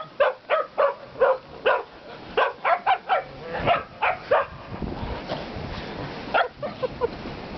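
Shetland sheepdogs barking rapidly and repeatedly, short sharp barks about two or three a second. About halfway through, a heavy rumble of blizzard wind on the microphone comes up and the barking thins to a few barks near the end.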